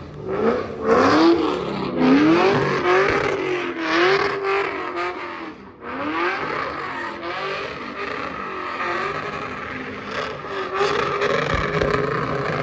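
Car engine revved hard and held high, its pitch climbing and then swinging up and down with the throttle, like a car spinning at a sideshow. The revs drop off briefly about halfway through, then come back up and hold.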